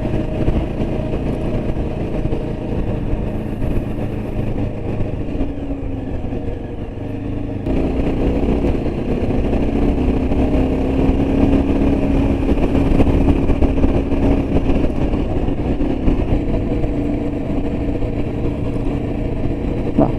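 Yezdi Adventure motorcycle's single-cylinder engine running steadily while riding along the road. About eight seconds in the engine gets louder as the throttle opens, and its note rises slightly after that.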